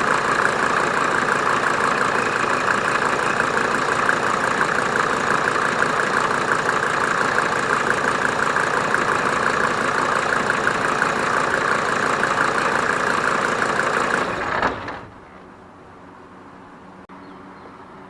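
Mercedes OM602 five-cylinder turbo diesel in a 1987 190D idling steadily, then dying away abruptly about fifteen seconds in, leaving only a faint low hum.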